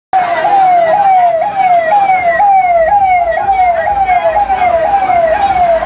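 Loud electronic siren-style sound effect: a wailing tone that falls in pitch and snaps back up, repeating about twice a second.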